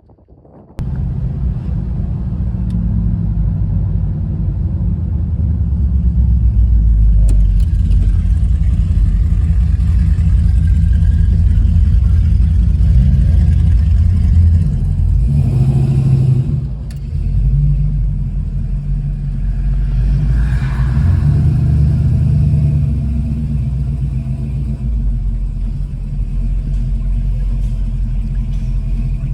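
Car engine rumbling loudly and deeply, starting suddenly about a second in and running on with small rises and falls, with a brief dip in level about seventeen seconds in.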